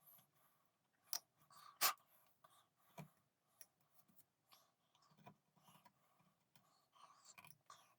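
Small hand-tool work at a bench: light, irregular scratching and clicking, with a few sharper clicks in the first three seconds.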